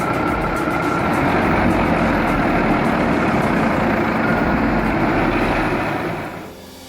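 A heavy vehicle's engine running hard under load, a loud, dense rushing noise that stops suddenly about six and a half seconds in.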